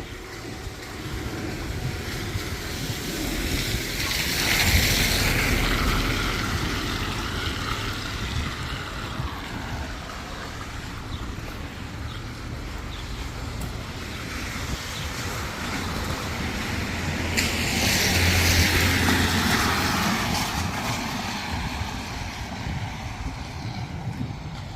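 Two vehicles passing on a wet road, one about five seconds in and one near eighteen seconds, each a swell of tyre hiss that rises and fades over a steady outdoor rumble.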